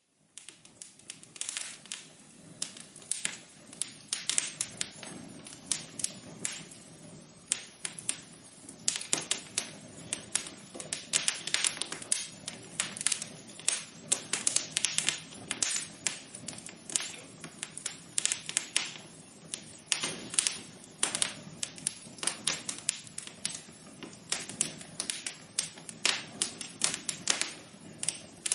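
Fire in a fireplace crackling, with dense, irregular sharp pops and snaps over a low steady hiss of the flames.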